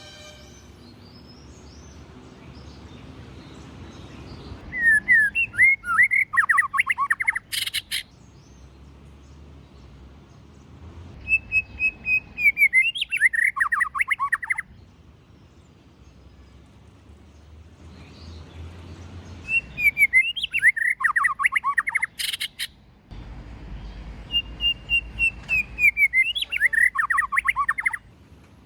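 White-rumped shama singing in four separate phrases, each opening with clear whistled notes and running into a quick tumble of falling notes. A sharp click sounds twice, at the end of the first phrase and near the end of the third.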